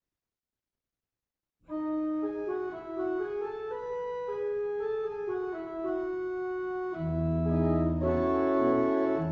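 Organ playing the introduction to a hymn: sustained chords with a melody moving on top. It starts about a second and a half in, and about seven seconds in deep bass notes join and it grows louder.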